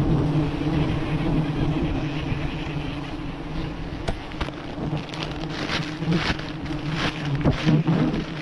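A mass of honeybees buzzing around their exposed wild colony, a steady low hum, with sharp crackling and scraping clicks from about four seconds in as the comb is handled and cut.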